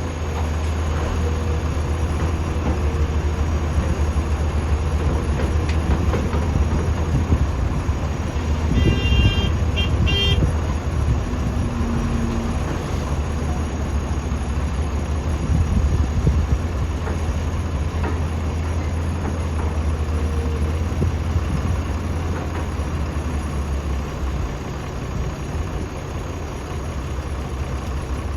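Heavy diesel engine running steadily with a deep low drone. About nine seconds in, a vehicle horn gives two short toots.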